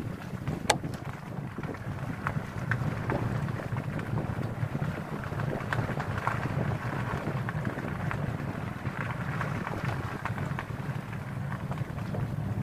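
Wind buffeting the microphone in a steady low rumble, with scattered light clicks and one sharp click about a second in.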